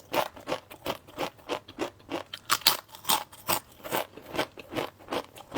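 Chewing crisp sweet potato chips: a steady run of crunches, about three or four a second.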